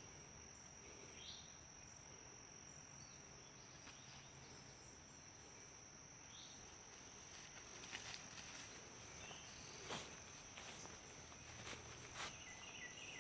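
Faint evening insect chorus, a steady high-pitched drone, with a few soft rustles or steps in the second half.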